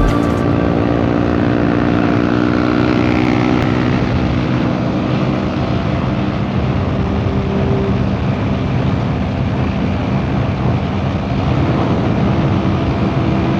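Yamaha R15 V3 motorcycle with a modified exhaust running steadily at cruising speed, engine note held even, with rushing wind and road noise over it.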